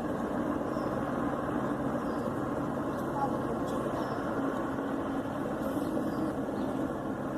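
Distant helicopter in flight, a steady drone with a faint low hum.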